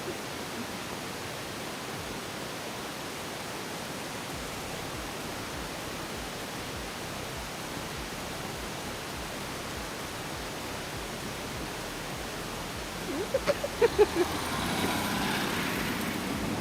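Steady, even noise, then about thirteen seconds in a quick run of about six short pitched toots, followed by the louder running noise of a train arriving through snow.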